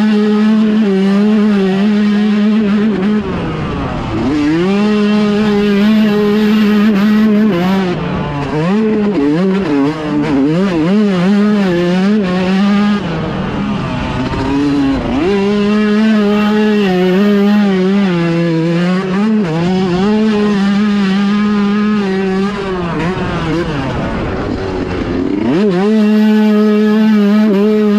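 Dirt bike engine running hard, held at steady high revs for stretches, with the revs repeatedly rising and falling in between as the rider shifts and rolls off the throttle.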